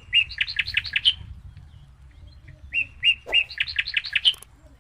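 A small bird singing two matching phrases about three seconds apart. Each phrase is two short whistled notes followed by a quick run of about six chirps.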